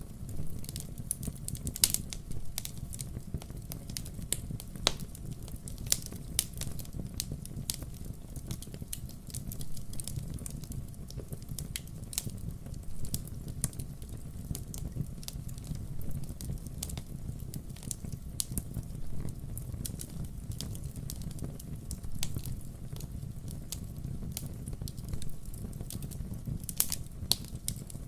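Wood fire crackling: irregular pops and snaps of burning logs over a steady low rumble.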